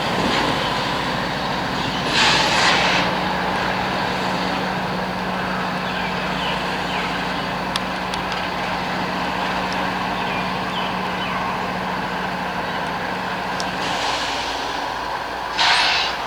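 Norfolk Southern freight train working, with a steady low hum and two short bursts of air hiss, one about two seconds in and one near the end.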